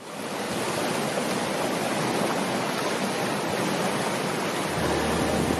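Steady rushing water noise that fades in at the start, with a low hum joining near the end.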